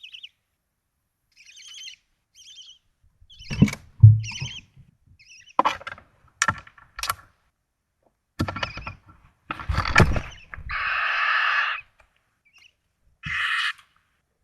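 Barn owls in a nest box: short high chittering calls, knocks and scrapes of the birds shifting about inside the box (the loudest a thump about 4 s in), and a hissing screech about a second long near the end.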